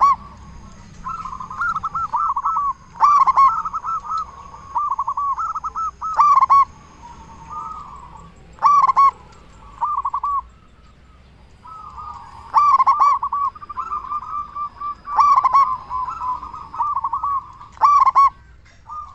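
Zebra doves (perkutut) cooing: a loud, big-voiced local perkutut repeating its bubbling coo phrase about every three seconds, with quieter cooing between the loud phrases.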